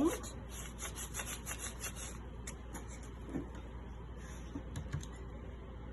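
Paper rustling as it is handled: a quick run of soft rubbing strokes, about five a second, through the first two seconds, then only a few faint taps.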